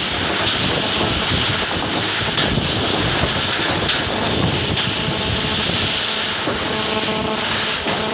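Heavy rain and hail coming down in strong wind, a steady rushing noise with a few sharper hail hits. A faint hum joins in near the end.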